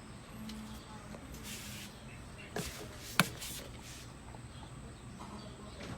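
Two clicks over a faint steady hiss: a small one about two and a half seconds in, then a sharp, louder one half a second later.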